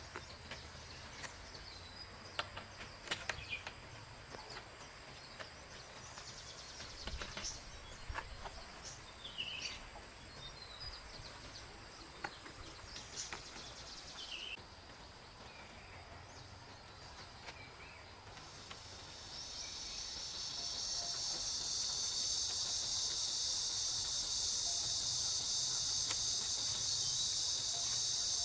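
Scattered light clicks and taps with a few short chirps over a faint high steady hum. About two-thirds of the way in, a loud, high-pitched, continuous insect drone swells in and holds.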